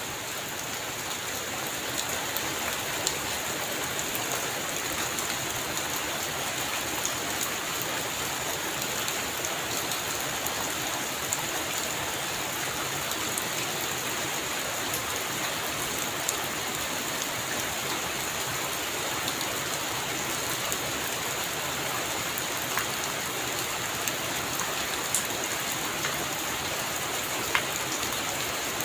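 Heavy rain falling steadily: a dense, even hiss with scattered sharp drops ticking nearby.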